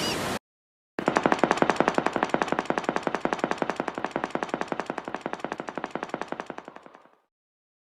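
A rapid run of sharp knocks, about nine a second, that slowly fades out over about six seconds. Just before it, the end of a short call with gliding pitch.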